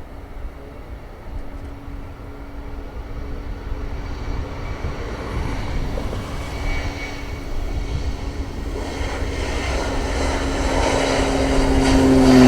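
Jet airliner's engines at takeoff power, a steady roar with a droning hum that builds steadily louder as the plane comes closer, peaking and starting to drop in pitch at the very end as it passes.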